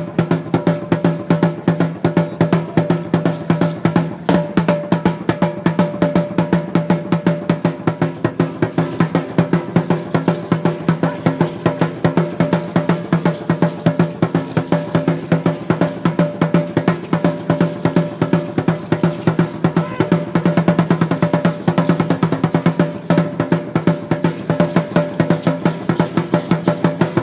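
Drumming for an Aztec Chichimeca dance: a deep drum beaten in a fast, steady rhythm, about three strokes a second, keeping an even beat throughout.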